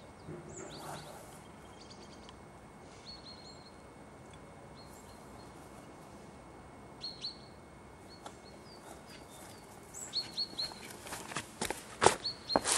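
Small birds chirping, with scattered short high chirps and brief falling whistles. Near the end comes a quick run of sharp clicks, the loudest sounds.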